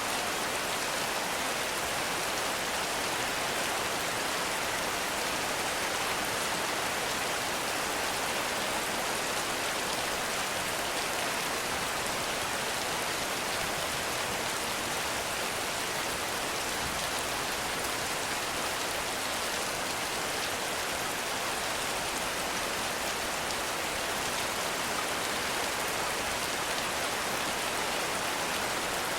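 Heavy rain falling steadily on forest foliage, a dense even hiss of drops with no breaks or single impacts standing out.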